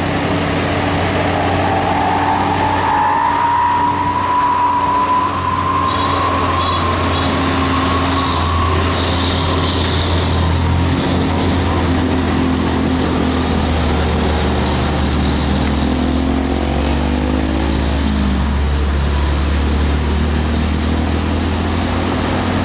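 Diesel engine of a heavily loaded truck running under load, a steady low drone with a whine that rises over the first ten seconds and then holds.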